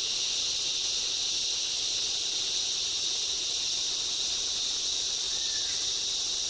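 Dense, steady chorus of insects in a rainforest, a continuous high shrill hiss with no break or rhythm.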